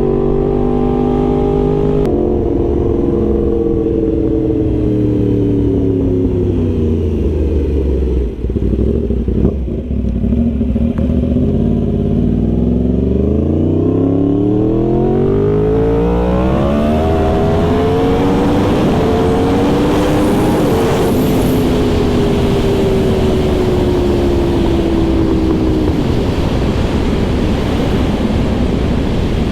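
Yamaha R1 sport bike's inline-four engine heard from the rider's seat: the revs fall for several seconds as the bike slows, then climb steeply as it accelerates and slowly ease off. Wind rush grows with speed and covers the engine near the end.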